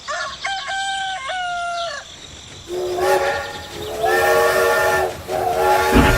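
A rooster crows, then a multi-tone train horn sounds in about three long blasts, with a low rumble of a train coming in near the end.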